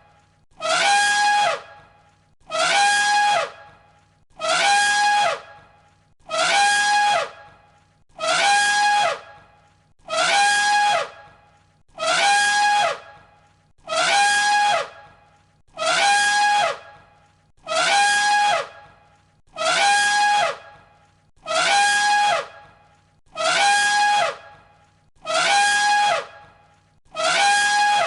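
Elephant trumpeting: the same brassy trumpet call, about a second long, repeated every two seconds or so as a loop of one recording.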